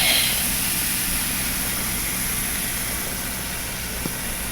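Baking soda and vinegar reaction fizzing in a cup: a steady hiss that fades slowly.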